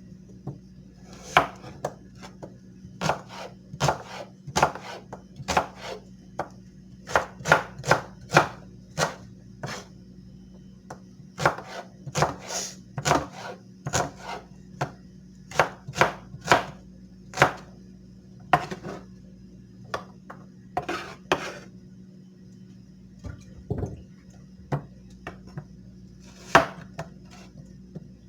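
Knife blade worked in short, sharp strokes, about one a second at an uneven pace, sometimes two in quick succession, over a faint steady hum.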